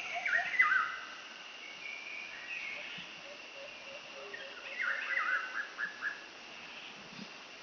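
Birds chirping in the background: quick sliding chirps about half a second in and again around five seconds in, with a faint run of short repeated lower notes between them.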